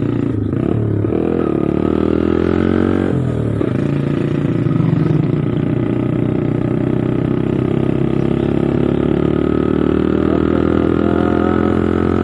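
Motorcycle engine and exhaust running while riding, its pitch dropping and climbing back twice in the first few seconds, then holding steady.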